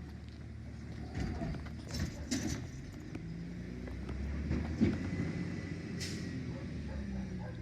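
Autocar Xpeditor garbage truck's diesel engine running steadily, with several metallic knocks and clanks and a short hiss about six seconds in.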